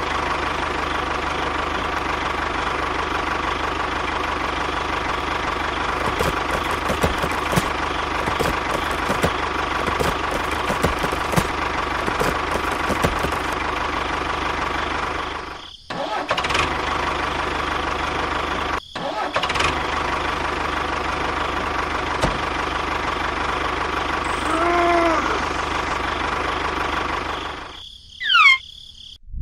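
A motor running steadily with a thin high whine, cutting out briefly twice, with a short wavering tone about 25 seconds in.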